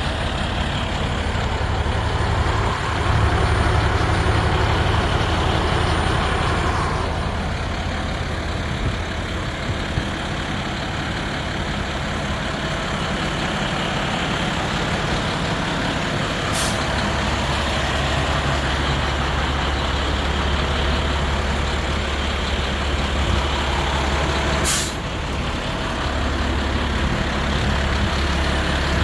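2017 Mack Granite garbage truck's diesel engine running steadily with a low hum. Twice, once past the middle and once near the end, there is a short sharp hiss of released air from the truck's air system.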